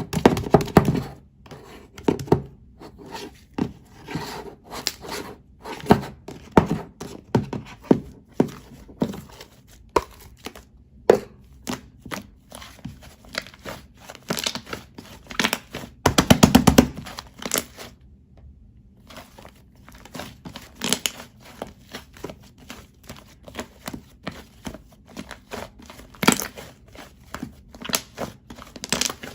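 Sticky white slime being squeezed and stretched by hand, giving irregular wet clicks and pops, with a quick run of crackling pops a little past halfway.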